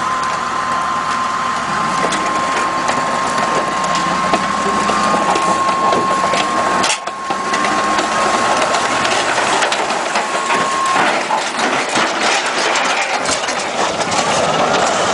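Machinery clattering and grinding, with a steady high whine that stops about eleven seconds in and a run of sharp clicks and knocks in the second half.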